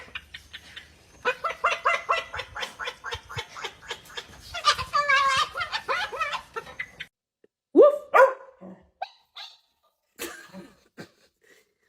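A dog barking: a fast run of barks, then two louder separate barks about eight seconds in.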